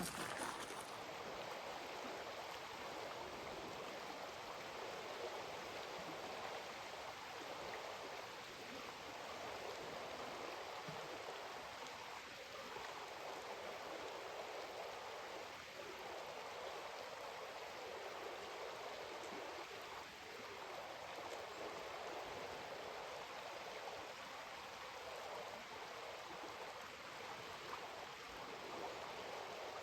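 The Kennebec River's water flowing past in a steady rush.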